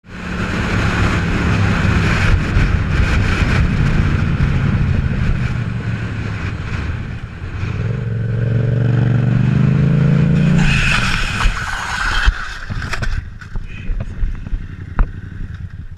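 Yamaha MT-07's parallel-twin engine running at steady throttle with a rushing noise over it. About eleven seconds in the engine note stops under a brief scraping burst as the footpeg feeler drags on the road and the bike slides out, followed by scattered knocks and thuds as it hits the kerb.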